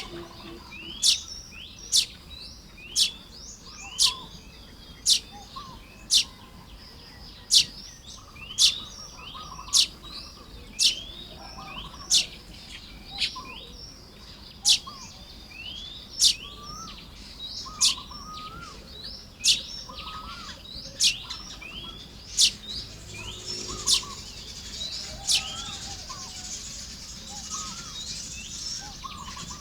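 Baya weavers chattering and chirping while nest-building, with a sharp high call repeated about once a second and slowing towards the end. Near the end a wheezy hiss joins the chatter.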